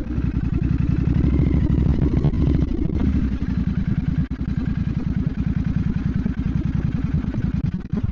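Royal Enfield Bear 650's parallel-twin engine running with a steady, pulsing exhaust note, then stopping abruptly at the very end.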